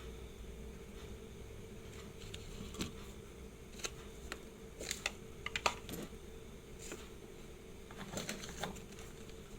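Light, irregular clicks and taps of small metal tools handling the parts of a Seiko 5 automatic watch, in scattered clusters, over a steady low hum.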